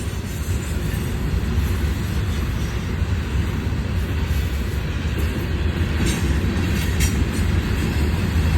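Long freight train's cars rolling past, their wheels on the rails making a steady low rumble.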